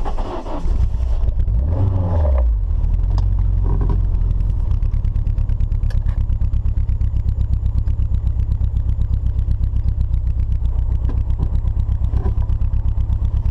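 Turbocharged Nissan 240SX KA24DE-T four-cylinder engine idling with an even, rapid pulse.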